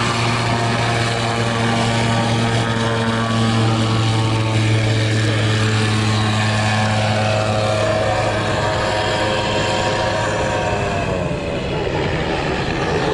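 Seaplane's propeller engine running at takeoff power, a steady drone. Its pitch drops slightly about eleven seconds in.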